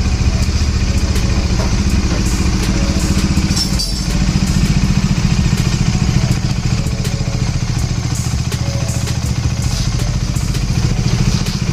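Bajaj Dominar's single-cylinder engine running steadily, fresh from an oil change to fully synthetic 10W-50 oil.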